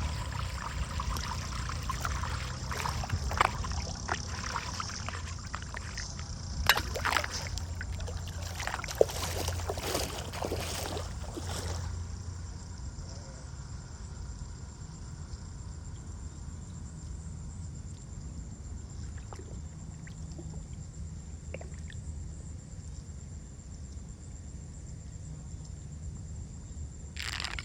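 Water trickling over a steady low rumble, with a run of knocks and scrapes in the first twelve seconds.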